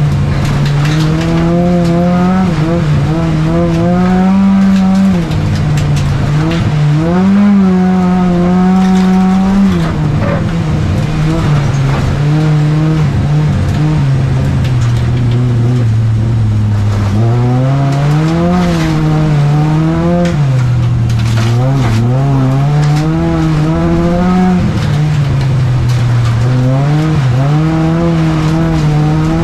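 Volvo 245 folkrace car's engine heard from inside the stripped cabin, running hard with its pitch rising and falling again and again as the throttle comes on and off through corners. Its revs sag lower for a few seconds around the middle, then climb again.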